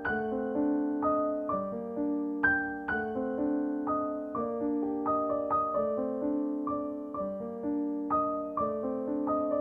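Background piano music: a gentle, slow melody of notes struck and left to fade over soft chords.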